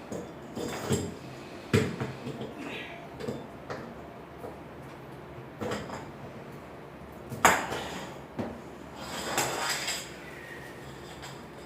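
Metal parts and tools clinking and clattering as they are handled, in irregular sharp knocks with a longer rattle about nine seconds in.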